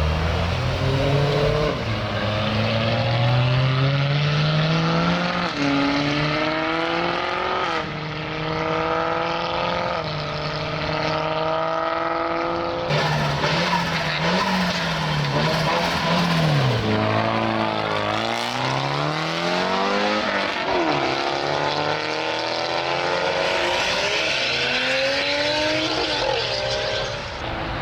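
Modified cars' engines revving and accelerating past one after another, the engine note repeatedly climbing in pitch then dropping as they shift or back off, with several cars overlapping near the middle.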